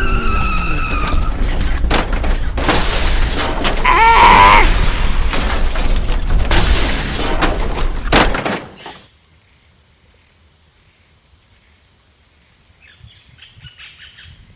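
Loud crashing, rattling noise of a toy truck crash in play, with a few short falling tones near the start and a brief cry about four seconds in. The noise cuts off abruptly after about eight seconds, leaving quiet with a faint steady high whine.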